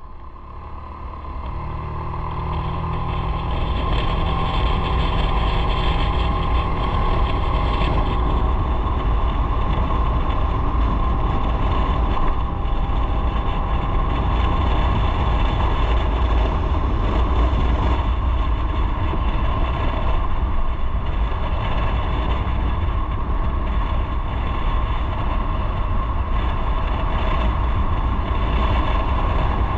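Motorcycle under way, with engine and heavy wind rumble on the microphone. The sound builds over the first few seconds as the bike picks up speed, then holds steady.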